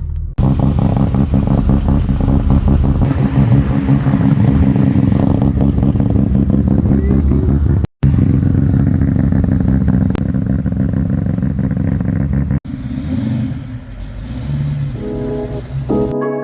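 Car engine running steadily and loudly, heard in several short clips joined by abrupt cuts. Music comes in near the end.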